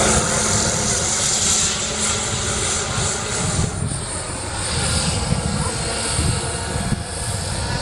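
Turbine-powered radio-controlled scale model of an Aérospatiale SA-319 Alouette III helicopter in flight: its model turbine engine runs with a steady whine and hiss over the fluttering noise of the rotor.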